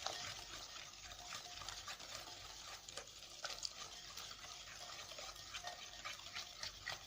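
Pancake batter being stirred in a bowl: continuous soft wet scraping with many small irregular clicks of the utensil against the bowl.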